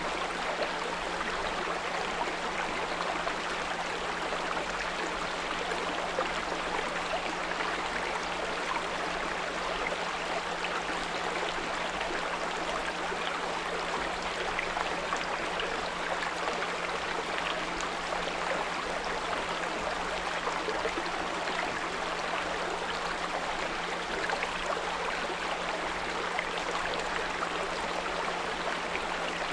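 Small brook running steadily, water babbling over stones, with a steady low pure tone at 174 Hz laid over it.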